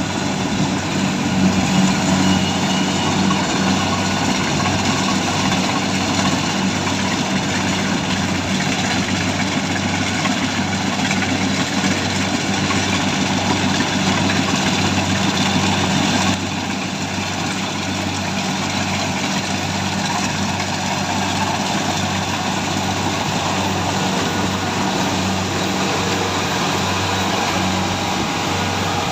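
Harvesting machine's engine running steadily under a dense, even mechanical whirring, with a low drone throughout; the sound drops slightly in level about sixteen seconds in.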